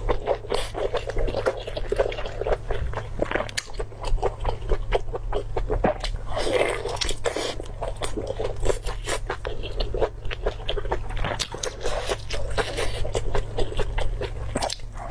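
A person chewing and biting soft, chewy meat close to the microphone: many quick, wet mouth clicks and smacks, over a low steady hum.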